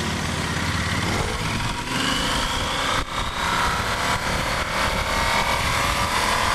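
Yamaha Super Ténéré 1200's parallel-twin engine accelerating hard, its pitch rising, with a brief dip about three seconds in at an upshift before it climbs again.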